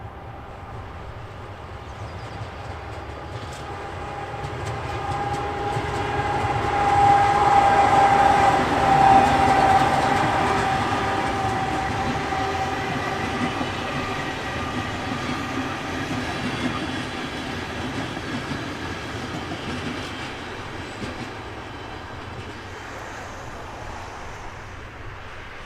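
Train passing by on the line. Its noise builds over several seconds and peaks about eight seconds in, with a steady whine. It then slowly fades away.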